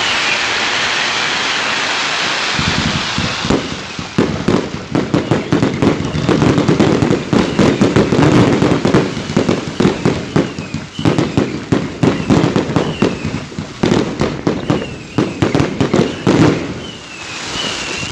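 New Year's fireworks: a steady hiss for the first few seconds, then from about four seconds in a dense run of rapid crackling pops and bangs that thins out near the end.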